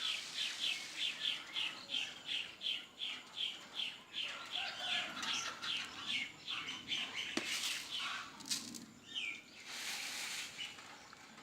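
A small bird chirping in a quick, even run of short high notes, about three a second, for several seconds. A sharp click follows, then a brief rustle of noise near the end.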